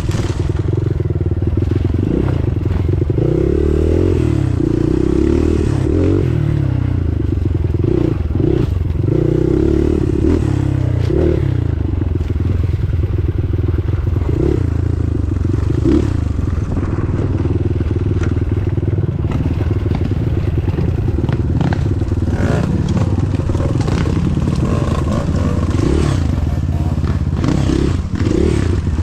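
Off-road trail motorcycle engine running under way, its pitch rising and falling with the throttle, with scattered clatter and knocks.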